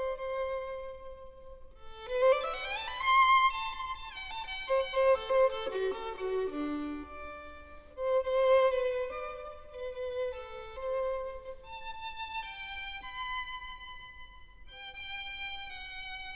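Violin music, melodic and slow, with held notes, an upward slide about two seconds in and a falling run of lower notes a few seconds later.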